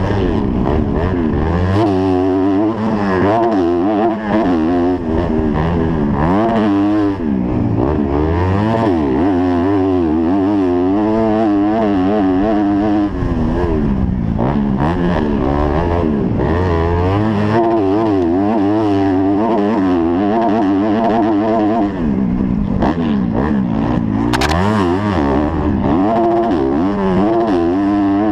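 250cc motocross bike engine, heard close from the rider's helmet, revving up and down continually as the throttle is worked around the track. A brief sharp knock near the end.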